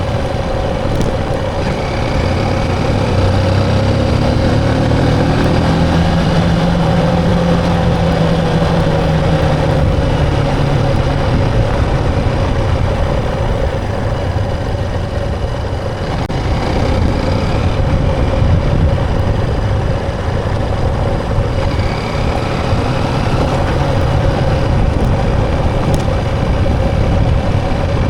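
Motorbike engine running steadily on the road, with a constant hum and road noise. A second, lower engine note rises for a few seconds near the start, then holds.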